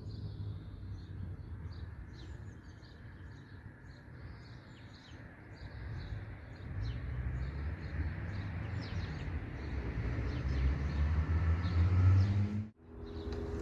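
Birds chirping again and again over a low rumbling noise that grows louder toward the end, then cuts out abruptly just before the end.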